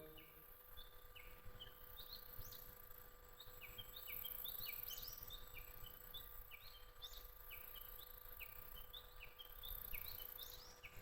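Faint birdsong: short chirping calls repeated several times a second over a faint low rumble.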